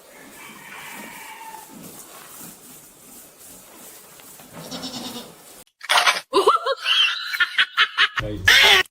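An animal giving a run of loud, short cries with sliding pitch, starting about six seconds in after a faint stretch.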